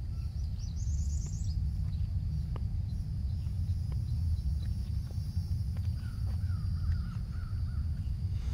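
Wild birds calling: a quick run of high chirps about a second in, and a series of repeated wavy calls near the end, over a steady low rumble.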